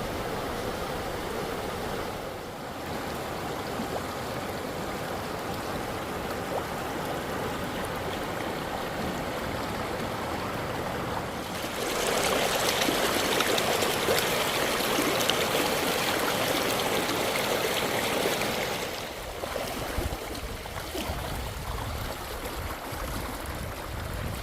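Rushing water of a wadi running in flood after rain, a steady roar that grows markedly louder about halfway through and drops back a few seconds before the end.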